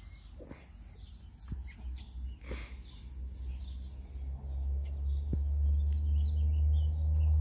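Small birds chirping: a handful of short, high, rising chirps, over a steady low rumble that grows louder about halfway through.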